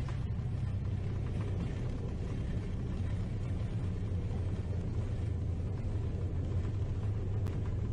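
Steady low rumble heard inside a jet airliner's cockpit during the landing rollout just after touchdown, as engine and runway noise carry through the airframe. It cuts off abruptly at the end.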